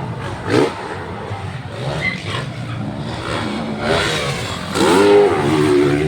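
Motocross dirt bikes racing, their engines revving up and down, with the loudest surge about five seconds in.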